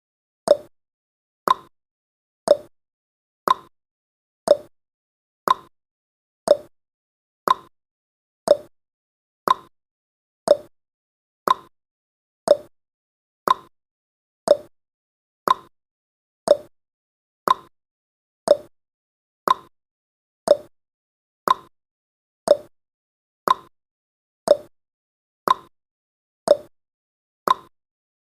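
Countdown timer's ticking sound effect: one short, sharp clock-like tick every second, each dying away quickly.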